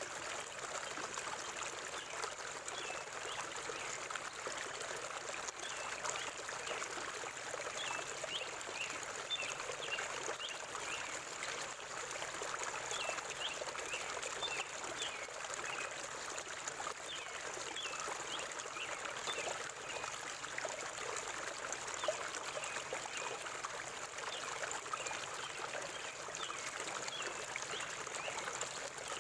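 Forest river water flowing and trickling steadily, with scattered short, high bird chirps over it.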